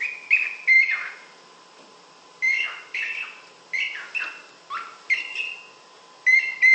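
Cockatiel giving short, repeated chirping calls in quick clusters, with a short pause about a second in.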